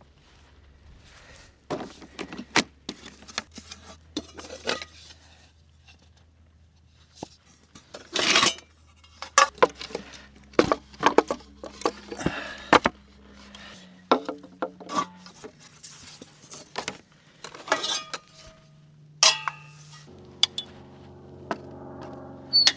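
Camp cookware and utensils being handled: repeated metallic clinks, knocks and short scrapes at an irregular pace.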